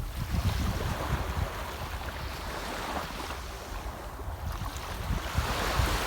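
Sea waves washing onto the shore, swelling and falling back every couple of seconds, with wind rumbling on the microphone.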